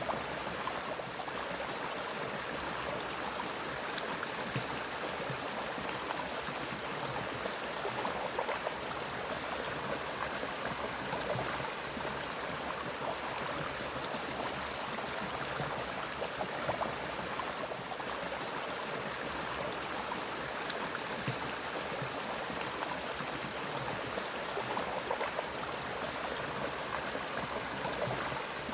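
Forest stream flowing and splashing steadily over rocks, with a steady high-pitched tone over it.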